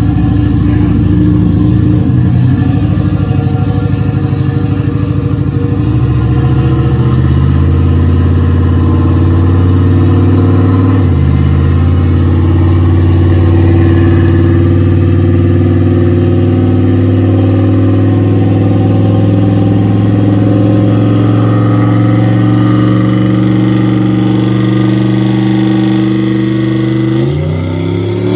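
A vehicle engine running steadily, its pitch stepping up a few seconds in and shifting again around the middle. It revs quickly near the end.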